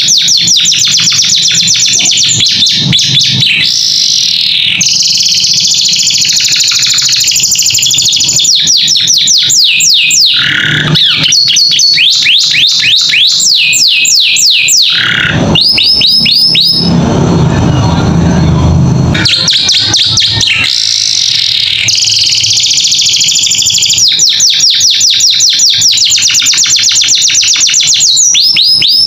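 Domestic canary singing a long, loud, continuous song of rapid trills and repeated sweeping notes, with a rougher, lower rolling passage around the middle.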